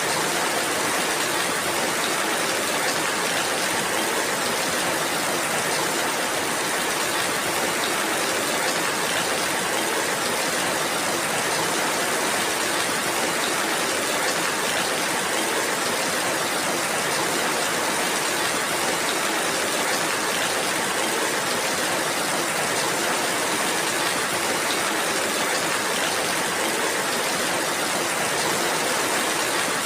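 Steady heavy rainfall, an even unbroken hiss with no single drops standing out.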